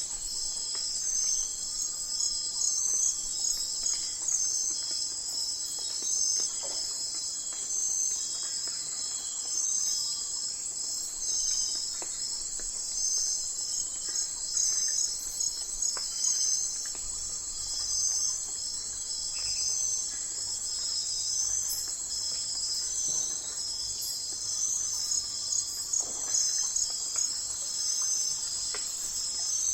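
Night chorus of crickets and other insects: a continuous high trill with rapid, evenly pulsed chirping layered over it, and faint occasional calls beneath.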